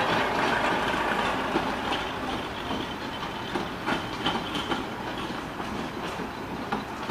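Narrow-gauge passenger coaches rolling past behind a Hunslet 0-4-0 diesel-mechanical locomotive: a steady rumble of wheels on the track with scattered sharp clicks as the wheels cross rail joints. The locomotive's engine drops away in the first couple of seconds as it draws off.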